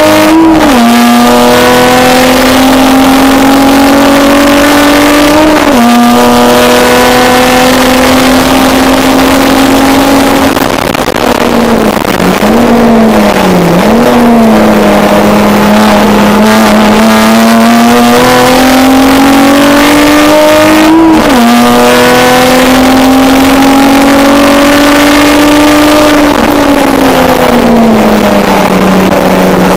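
Race car engine, heard loud from inside the stripped cabin, pulling hard through the gears: the note climbs slowly and drops with upshifts near the start, about six seconds in and about twenty-one seconds in. Around twelve to fourteen seconds it falls away with two quick throttle blips, as when braking and downshifting, and it winds down again near the end.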